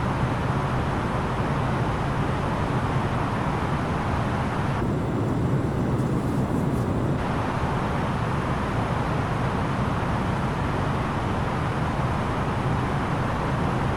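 Steady cabin noise of an Airbus A330-900neo in flight: an even rush of airflow over a low engine hum. The upper hiss dulls for about two seconds midway.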